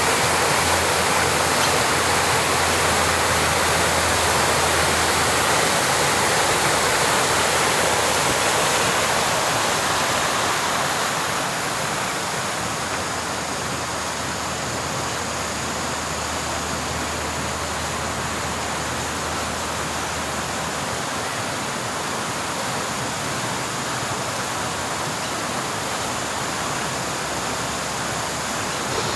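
Steady rush of running water, easing a little about eleven seconds in and then holding steady.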